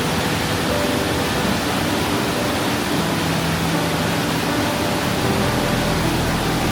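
Steady rush of water in a mountain stream, with faint sustained music notes underneath.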